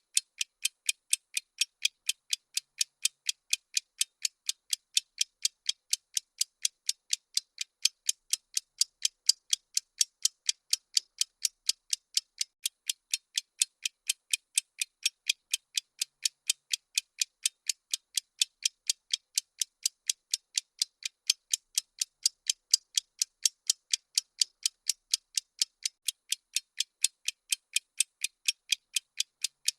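Bomb-countdown ticking sound effect: sharp, high clicks at an even pace of roughly two to three a second, unchanged throughout.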